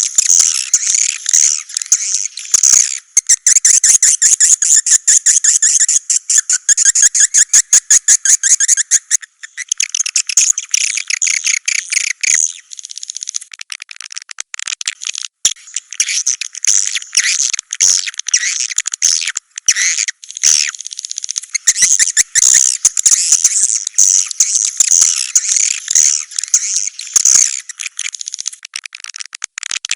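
Swiftlet calls: a dense, continuous high twittering of rapid chirps with a few short breaks, the recorded call played in swiftlet houses to draw the birds in to nest.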